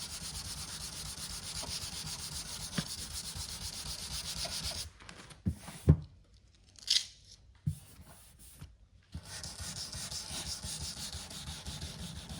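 Hand sanding cured UV body filler with 320-grit paper on a sanding block, a steady scratchy rubbing. It stops for about four seconds in the middle, where a few light knocks are heard, then starts again.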